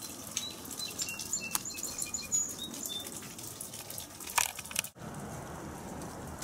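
A small bird singing a quick run of short, high notes about a second in, over a steady faint outdoor hiss. A few sharp clicks from camera handling, the loudest just after four seconds in.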